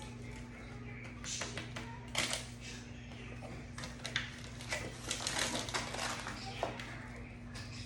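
Hands rubbing and patting dry rub onto ribs in a pan: scattered soft rustles, pats and light taps at an irregular pace, over a steady low hum.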